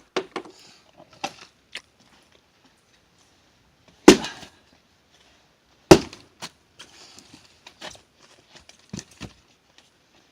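Firewood being split with heavy blows: two loud strikes about two seconds apart near the middle, each with a brief cracking tail, and smaller knocks and clatter scattered around them.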